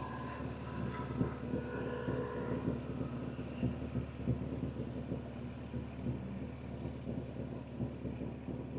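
BMW M2 G87's S58 twin-turbo straight-six, fitted with catless downpipes, running at low, steady revs with a steady low drone and no revving.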